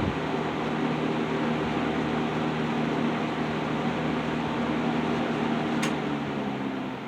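Phoenix box fan running, its freshly oiled motor humming steadily under the rush of air, after a sharp click of its speed switch right at the start. Near the end the hum changes and the sound starts to fall away as the motor slows.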